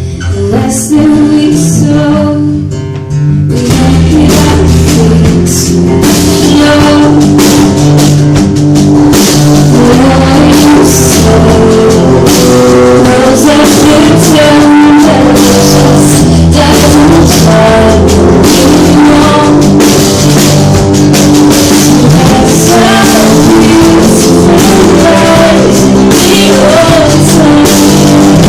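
Live band playing a folk-rock song with guitar and drums, the full band coming in about three seconds in. It is a loud, low-quality phone recording.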